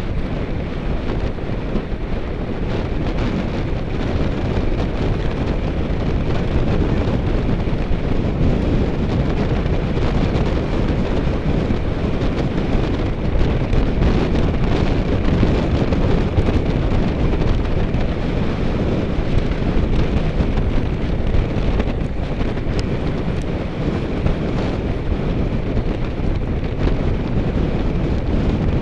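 Steady wind noise buffeting the microphone of a camera riding along on a road bike at speed.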